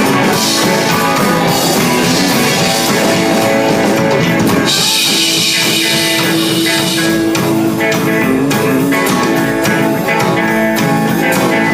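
Live band playing an instrumental passage of a country-rock song on guitar and drum kit.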